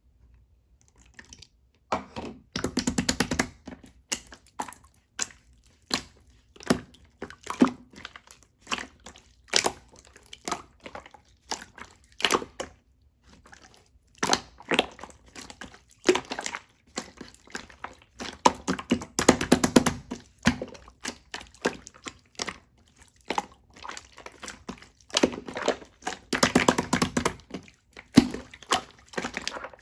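Close-up handling of small objects: irregular tapping, clicking and crinkling, some in quick rattling clusters lasting about a second.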